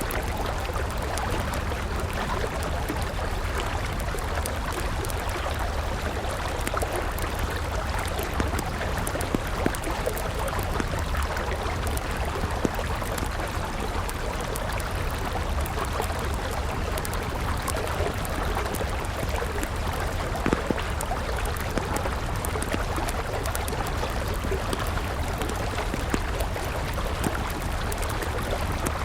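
River water flowing steadily, with a wood campfire crackling over it in frequent small, sharp pops.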